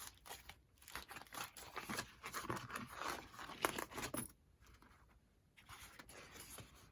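Paper rustling and crinkling with small clicks as a craft envelope is handled, pausing for about a second after four seconds in.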